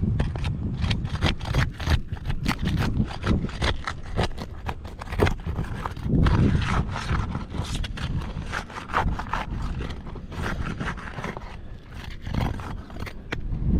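Irregular scraping, clicking and knocking as a roof shingle is worked loose and handled with tools, over a low rumble.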